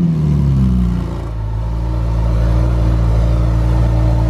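A supercar's engine coming down off a rev in the first second, its pitch falling, then settling into a steady, deep idle.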